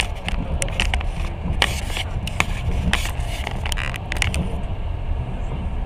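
Passenger train running along the track, heard from inside the carriage: a steady low rumble with irregular sharp clicks and rattles that stop about four and a half seconds in.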